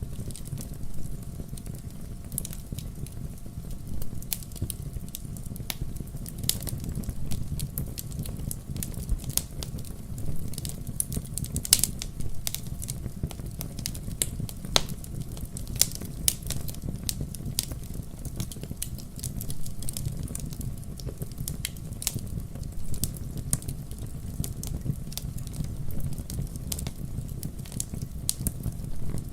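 Wood fire in a fireplace crackling, with frequent small irregular pops over a steady low rumble of the flames. A few louder snaps stand out, one about twelve seconds in and another about four seconds later.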